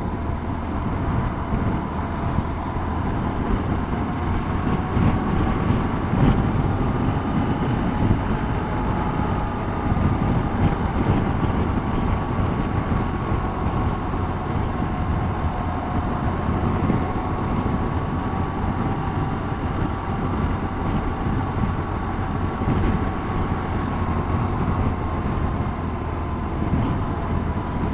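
Motorcycle riding at a steady speed, its engine note holding nearly level with only slow, slight rises and falls in pitch, over a constant low rumble.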